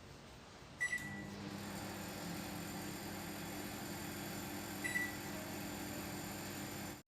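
LG 20-litre microwave oven giving a short beep about a second in, then running with a steady, even low hum, with a second short beep about four seconds later. It runs without the abnormal noise that the repair set out to cure.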